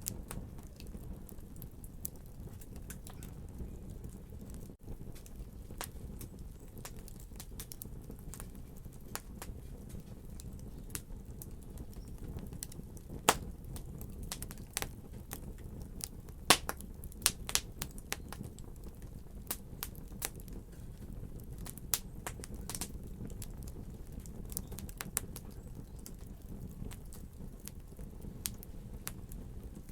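Fireplace fire crackling, with irregular sharp pops over a steady low rumble of the flames. The loudest pops come about 13 seconds in and in a cluster from about 16 to 18 seconds.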